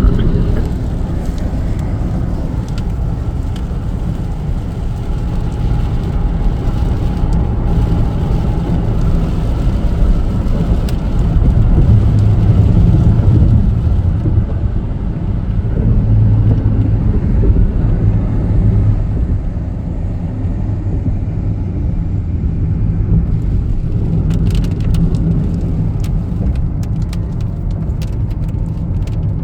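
A car on the move, with steady road and engine rumble as heard from inside the cabin. The rumble grows louder in the middle, and a few brief clicks come near the end.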